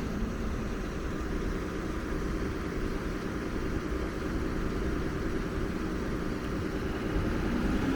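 Steady engine hum of an idling diesel city bus (Nova Bus LFS), with a steady low tone joining near the end.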